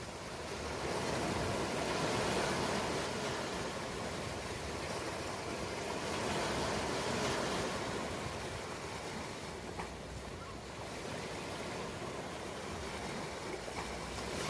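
Ocean waves breaking and washing on a shore in slow swells, each wave rising and falling over several seconds.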